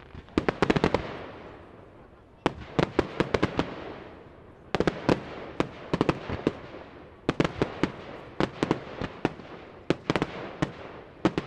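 Fireworks going off in salvos: about five quick clusters of sharp bangs and crackles from bursting aerial shells, each cluster trailing off in a fading echo before the next.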